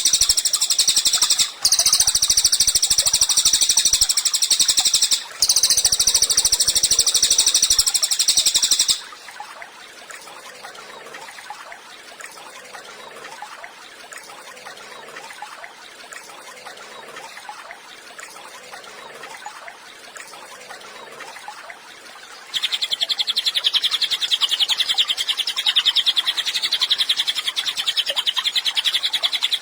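A cililin songbird singing long, very rapid, high-pitched trills that break twice briefly. About nine seconds in it drops to quieter, softer notes. Loud rapid trilling, a little lower in pitch, resumes in the last seven seconds.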